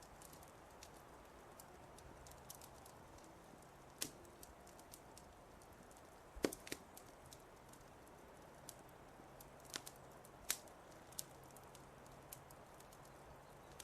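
Wood fire crackling: sparse sharp pops and snaps over a faint steady hiss, the loudest pop about six and a half seconds in.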